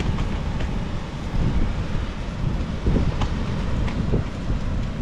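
Strong wind buffeting the microphone: a steady low rumble with a few brief clicks.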